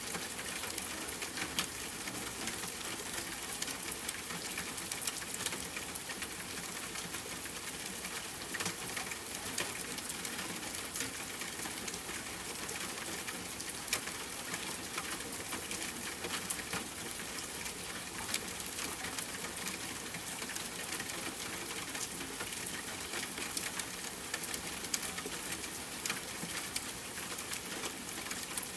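Steady rain falling: a constant hiss with many small ticks of individual drops scattered through it.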